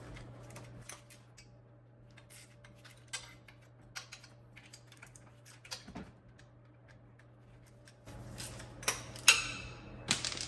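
Scattered light metallic clicks and taps of hand tools working on exhaust headers and manifolds. Near the end a loose metal part falls and clatters with a short ring.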